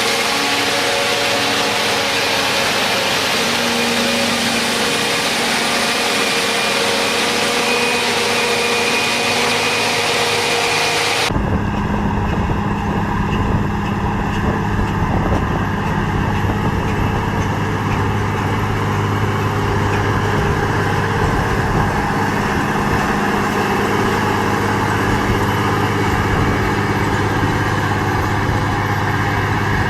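Heavy farm machinery running. A high-pitched mechanical whir with steady tones cuts off abruptly about eleven seconds in, and a steady, low engine drone takes over.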